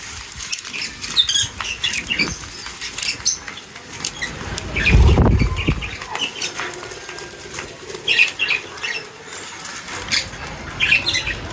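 Small birds feeding, with short high chirps, pecking clicks and wing flutters, and a louder low whoosh of wingbeats about five seconds in.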